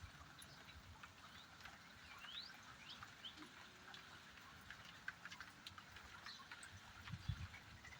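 Faint, steady rain hiss with scattered drip ticks, and a bird giving several short rising chirps in the first few seconds. A few low thuds come about seven seconds in and are the loudest sound.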